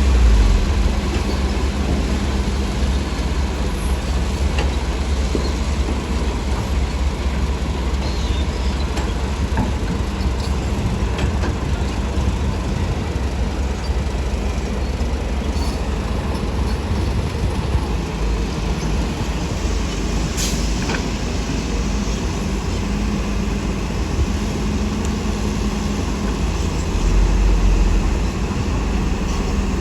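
Heavy diesel engines of earthmoving machines running steadily, a deep engine drone with a few faint clicks and one sharper tick about two-thirds of the way in.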